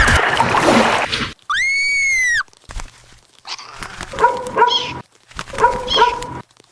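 Animal calls: one long high call that rises and then falls, about a second and a half in, then two groups of shorter calls later on.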